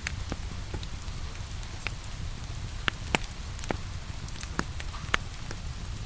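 Rain with a crackling wood fire: a steady low rumble under sparse, irregular sharp pops, the loudest about three seconds and five seconds in.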